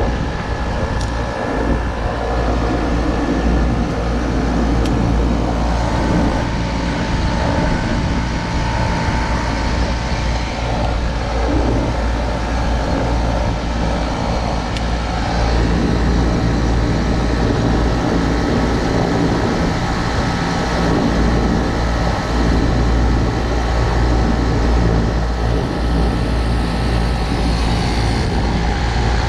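Trane package air-conditioning unit running steadily with its newly replaced condenser fan motor: an even, continuous mechanical hum with a strong low drone.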